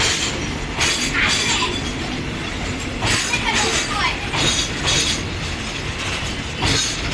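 Train running along the track: a steady rumble with irregular rushes of rattling noise every second or two, some carrying short squeals.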